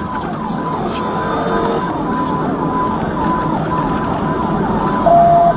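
Police car siren cycling rapidly in a fast repeating sweep, heard from inside the pursuing patrol car over steady engine and road noise. A short steady beep near the end is the loudest sound.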